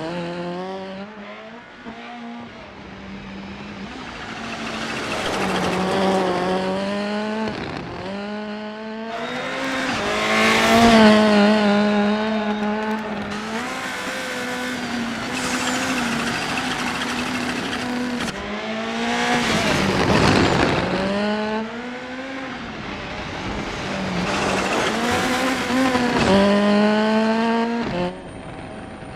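Rally car engine accelerating hard again and again, its pitch climbing and then dropping sharply at each gear change, with a noisy rush of tyres and road beneath. There are about five of these pulls, the loudest about eleven seconds in.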